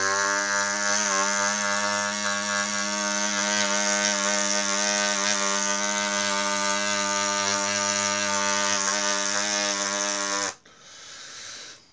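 Moped engine running at a steady speed with a high, buzzing note that holds its pitch, then cuts off suddenly about ten and a half seconds in.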